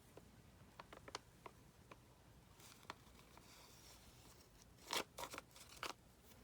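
Faint desk-crafting noises from handling paper and glue: scattered light taps and clicks, a brief soft rustle about three seconds in, and a few sharper clicks near the end.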